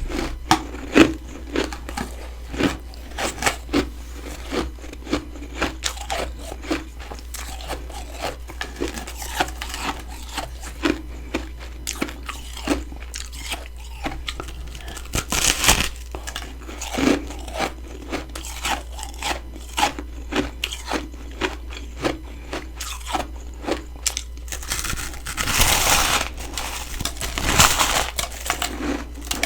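A person biting and chewing freezer frost, giving crisp crunches several times a second. There are a few longer crunching stretches about halfway through and again near the end.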